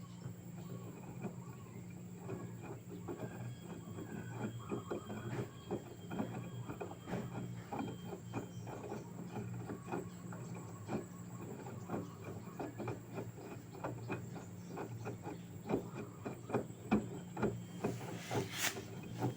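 LG direct-drive front-loading washing machine partway through a cotton wash cycle: a steady low motor hum with irregular clicks and knocks from the tumbling load. The knocks grow busier and louder near the end.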